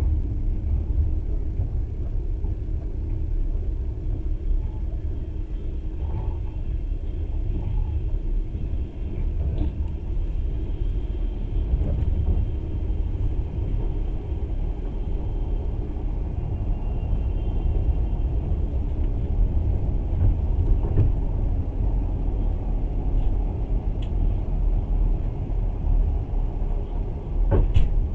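Steady low rumble of a passenger train running along the rails, heard from inside the carriage, with a sharp knock near the end.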